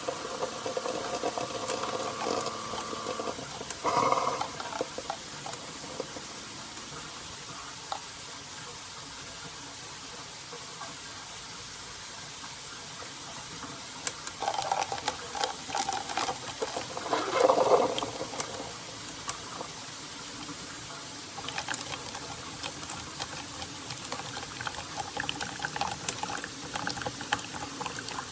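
Keurig K-Slim single-serve coffee maker brewing. A steady hum stops a few seconds in, followed by a knock. Then liquid trickles and sputters, with louder irregular gurgling bursts around the middle.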